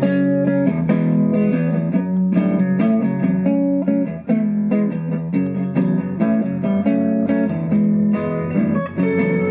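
Live rock band's instrumental intro: strummed guitars with bass, played at a steady rhythm before any singing.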